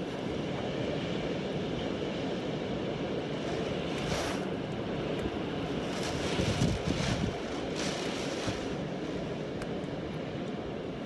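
Storm wind rushing steadily, with stronger gusts buffeting the microphone about four seconds in and again between six and eight seconds in.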